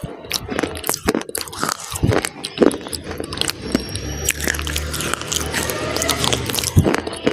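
Close-miked biting and chewing of a hard, brittle solid: many sharp crunches in quick, irregular succession.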